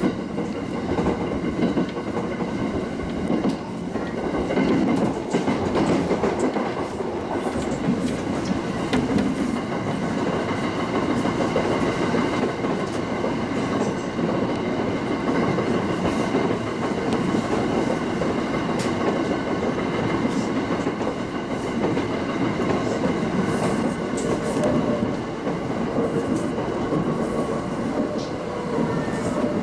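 Local passenger train running steadily between stations, heard from inside the front car: continuous running noise with the clickety-clack of wheels over rail joints and a few faint steady tones.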